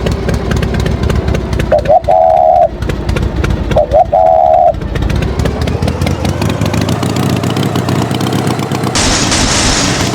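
Cartoon tractor engine sound effect running with a fast, rough pulse, with two short high tones about two seconds apart early on and a loud hiss starting near the end.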